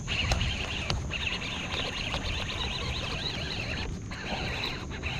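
Outdoor summer creek ambience: a busy chorus of high chirps from birds and insects, over a low steady rumble.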